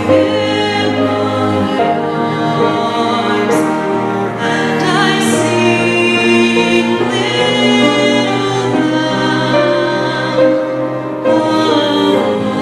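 Choir singing Christmas music in held chords, at a steady loud level.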